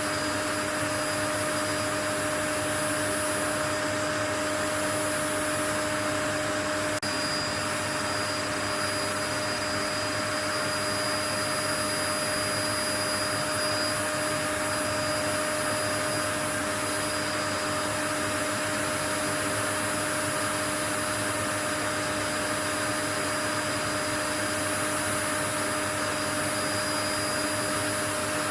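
Steady white noise: an even, unbroken rushing hiss with a few faint steady tones in it, unchanging throughout.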